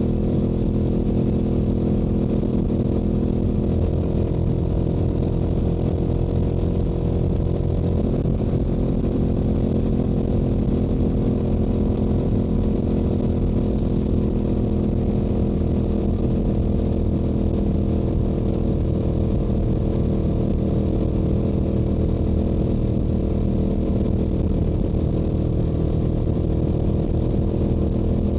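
Yamaha YZF-R7 motorcycle with its stock exhaust, its 689 cc parallel-twin engine running steadily at highway cruising speed, with a small shift in engine pitch a few seconds in.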